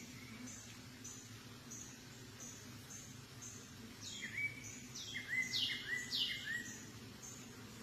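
Low steady hum of a honeybee hive under a high, short chirp repeating about twice a second. From about four seconds in, a bird sings a quick run of sweeping, falling notes, the loudest sound, which stops about two and a half seconds later.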